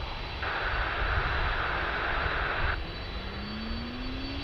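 Jet airliner engines rumbling steadily, with a whine that rises in pitch near the end. A burst of open-radio hiss switches on and off abruptly partway through.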